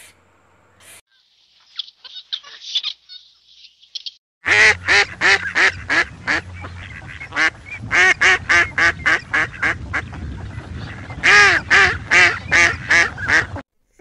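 Mallard duck quacking: a long run of loud, rapid quacks starting about four seconds in, easing briefly around ten seconds before another burst, and stopping just before the end. Before the quacking come a few seconds of faint high-pitched chirps.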